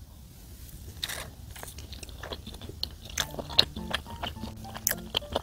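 Close-up biting and chewing of a chewy potato cheese bagel, a scatter of small soft crunches and mouth clicks. Faint background music comes in about three seconds in.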